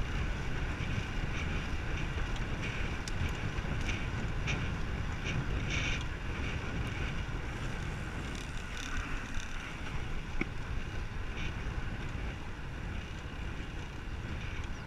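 Wind buffeting the microphone of a moving bicycle, a steady low rumble, with a few faint high ticks mixed in.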